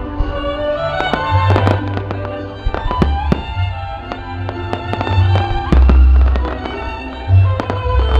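Fireworks going off in many sharp bangs and crackles, over loud music with a heavy bass line and a melody.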